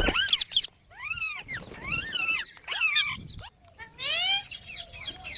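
Pet green parrot calling: a string of loud squawks, each arching up and down in pitch, about one a second, with a quick run of rising notes about four seconds in.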